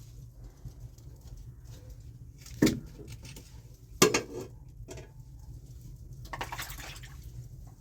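Two sharp knocks with a short ringing tail, a little over a second apart, the second the louder, then a brief rustle.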